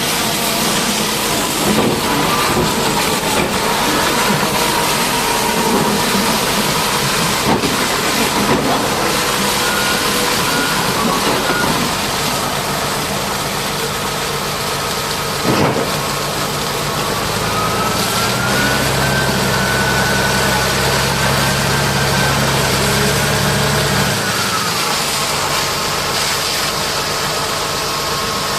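An engine running steadily under a constant hiss. About two-thirds of the way through, a deeper hum and a higher whine rise together, hold for several seconds, then drop away.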